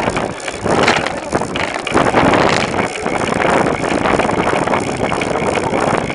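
Wind buffeting the microphone of a camera on a moving bicycle, a loud uneven rush with road and tyre noise underneath.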